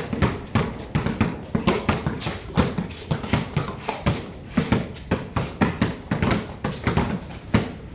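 Several basketballs dribbled at once on a hard court: an uneven, overlapping patter of bounces, a few each second.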